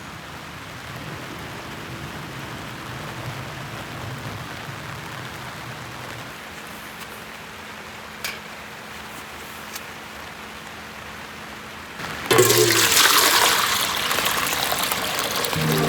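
Steady rain falling, then about twelve seconds in an abrupt switch to a much louder, brighter rush of water.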